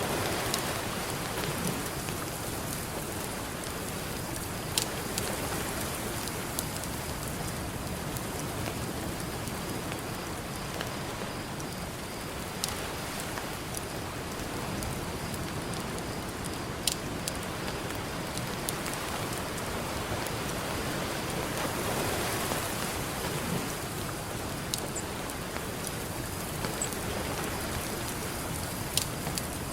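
Campfire crackling, with a few sharp pops, over a steady wash of ocean waves that swells near the start and again about two-thirds of the way through.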